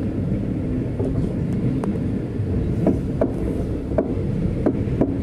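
Passenger train carriage running on the track: a steady low rumble with sharp clicks about once a second.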